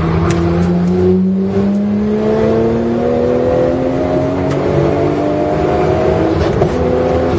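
Car engine heard from inside the cabin, pulling hard under full throttle in one gear, its note climbing steadily as the car accelerates down a straight.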